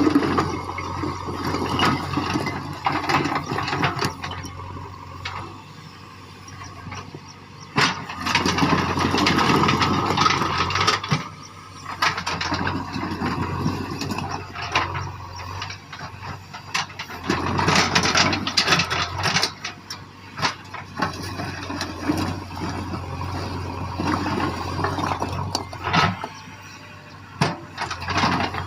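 JCB backhoe loader's diesel engine running steadily and surging under load as it works, with rattling and several sharp knocks of stone and steel.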